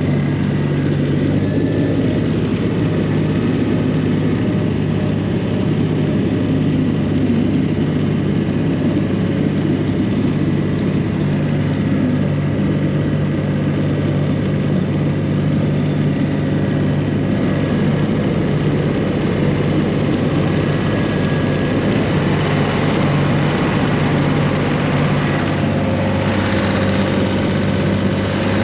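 1985 John Deere 1050's three-cylinder diesel engine running steadily under light load as the tractor is driven slowly, still warming up after a cold start. It is heard from inside the tractor's cab.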